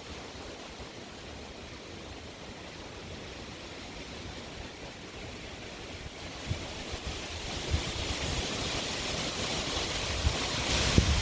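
Strong wind blowing, a steady rushing that builds in a gust over the second half, with low buffeting thumps of wind on the microphone near the end.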